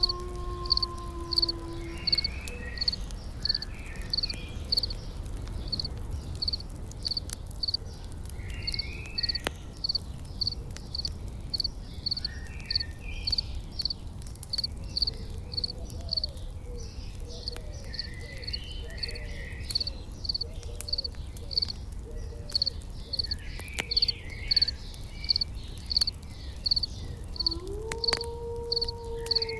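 Insect chirping in a steady high pulse about two and a half times a second, with scattered bird chirps and faint crackles over a low rumble. A long held low tone runs at the start, stops about two seconds in, and returns near the end after sliding up in pitch.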